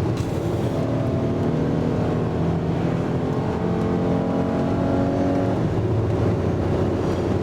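Car engine and road noise heard from inside a moving vehicle, the engine note rising gradually and then falling away about five and a half seconds in.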